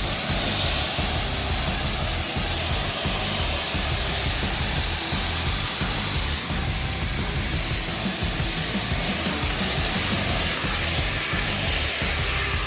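Pressure washer spraying water: a steady hiss of the jet over a low rumble.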